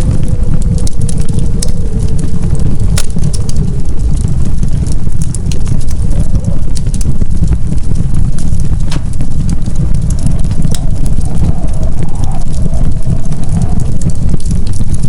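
Wood fire crackling in a fireplace: irregular sharp pops and snaps over a steady deep rumble of the flames. A faint wavering whistle rises and falls through the middle and later part.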